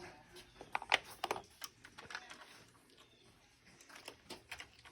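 Irregular light metallic clicks and taps from hand tools and engine parts being handled during an engine teardown, busiest about a second in and sparser toward the end.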